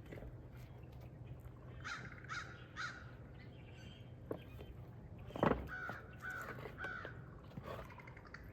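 A crow cawing: three calls about two seconds in, then three more a few seconds later. A sharp thump comes just before the second set.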